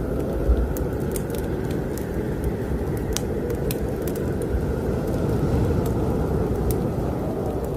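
Fireplace fire crackling with scattered sharp pops over the steady low rumble of strong snowstorm wind.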